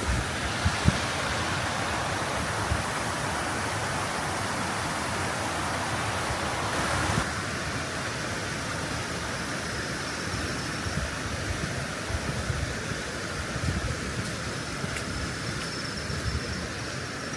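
Steady rain falling, an even hiss that eases a little about seven seconds in.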